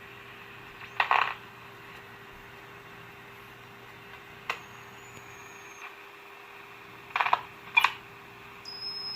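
Tube radio's speaker giving a steady static hiss over a low hum while being tuned, with several sharp clicks. A thin high whistle sounds for about a second and a half after the second click, and another steady high tone comes in near the end.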